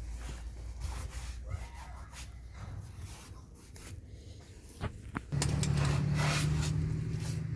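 Rubbing and clicking of hand tools on the tow bar bolts as they are torqued up. About five seconds in, after two sharp clicks, a loud steady motor hum starts and keeps running.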